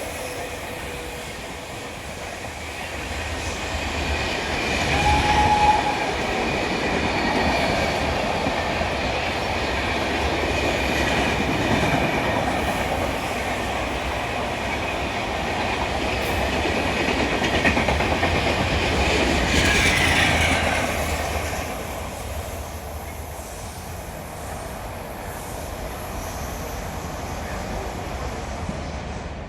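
An express passenger train runs through a station at speed without stopping, a steady rumble and clatter of coach wheels on the rails. A short tone sounds about five seconds in.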